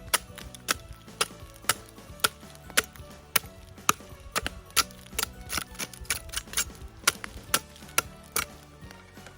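Sharp wooden knocks about twice a second: a blade striking and splitting dry, half-burnt campfire wood.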